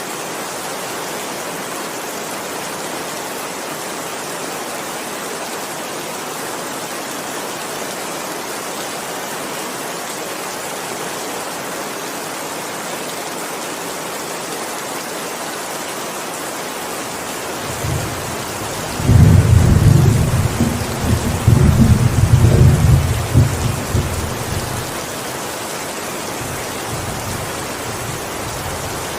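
Steady heavy rain hissing throughout, with a loud rolling thunderclap that builds about eighteen seconds in, rumbles heavily for several seconds and dies away, leaving only the rain.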